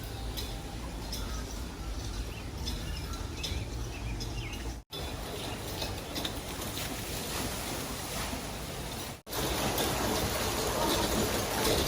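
Running water with birds chirping over it. After a short break near the end, the water rushes louder.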